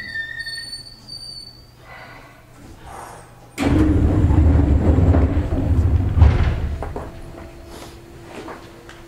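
Running sound aboard a Seibu New 2000 series electric train: thin high whistling tones for the first couple of seconds, then a sudden loud rumbling rush about three and a half seconds in that fades away over the next three seconds, leaving a steady low hum.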